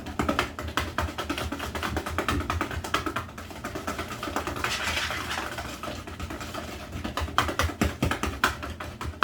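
Wire whisk beating cake batter in a mixing bowl, a rapid, uneven run of clicks and taps as the whisk strikes the bowl.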